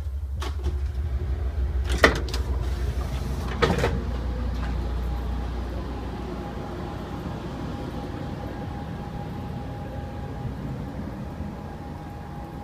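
Sliding end door between Pacific Surfliner passenger cars opening and closing, with two sharp knocks about two and three and a half seconds in, over a loud low rumble from the gangway between cars that fades over the next few seconds. A steady hum carries on after.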